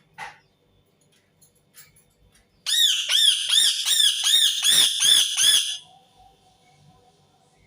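Indian ringneck parakeet squawking: a fast run of about ten repeated, sharply arched calls lasting about three seconds, beginning a little under three seconds in. A single short call comes just after the start.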